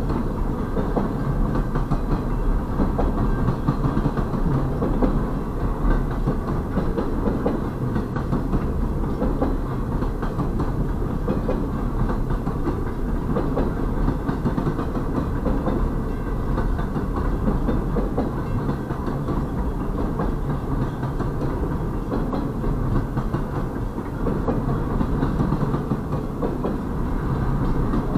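Double-stack intermodal freight train's container cars rolling steadily past, wheels running on the rails with frequent small clicks.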